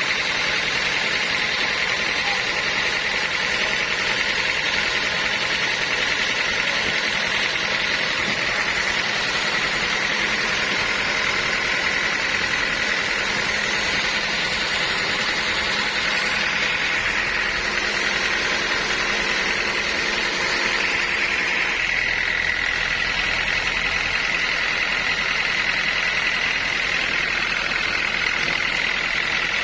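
Sawmill machinery running steadily: a constant mechanical drone with a high whine that drifts slightly in pitch.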